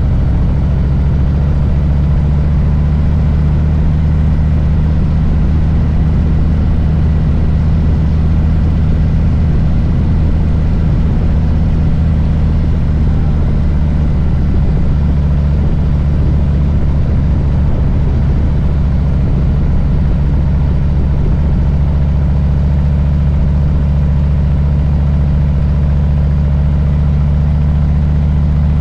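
Harley-Davidson Low Rider S Milwaukee-Eight V-twin running steadily with a low rumble.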